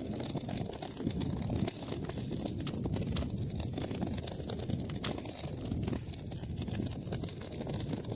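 Wood fire burning in a fireplace: a steady low rumble of flames with dense crackling and small pops, and one louder pop about five seconds in.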